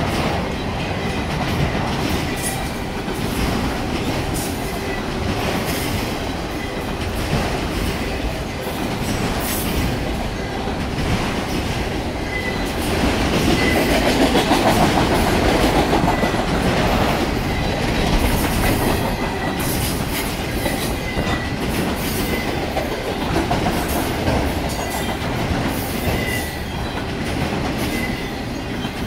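Freight cars of a mixed freight train rolling past: a steady rumble with wheels clacking over the rail joints and brief high squeaks every couple of seconds. It grows louder for a few seconds about halfway through.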